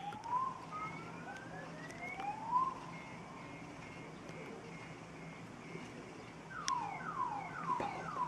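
Electronic car alarm cycling through its tones: slow rising whoops, then a run of quick beeps, then a rapid series of falling chirps.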